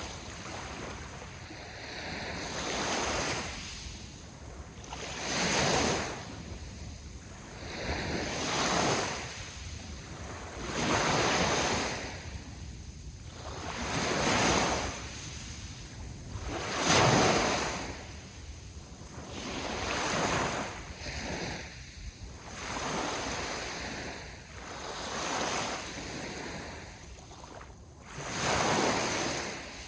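Ocean waves breaking and washing up the shore, a rushing surge swelling and fading about every three seconds over a steady low rumble.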